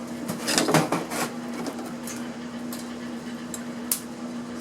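Clatter and clicks of small hardware and parts being handled as an electronic speaker cabinet is taken apart, busiest in the first second and a half with one more click near the end, over a steady low hum.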